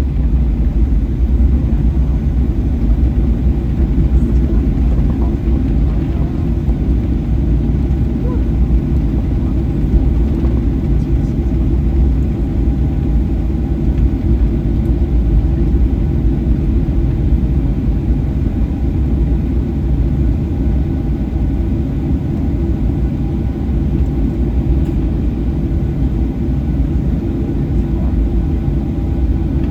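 Steady, low cabin rumble of a Boeing 737-800 taxiing after landing: the engines at idle and the airframe rolling over the taxiway.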